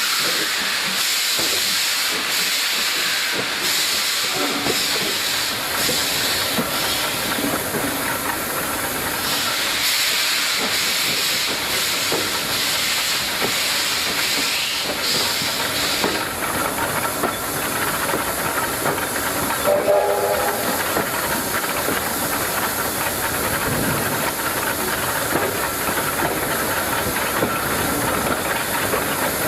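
Steam locomotive hissing steam steadily, with a brief tone about two-thirds of the way through.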